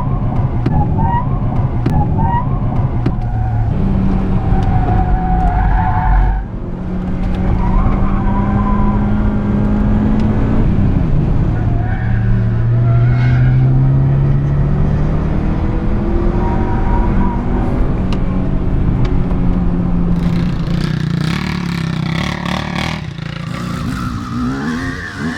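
A car driven hard: its engine note climbs and drops through gear changes, with a sharp break about six seconds in and another climb past the twelve-second mark.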